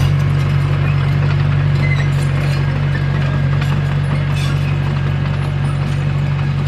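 Komatsu D21P crawler bulldozer's diesel engine running steadily under load, with the loose clatter of its steel tracks over it.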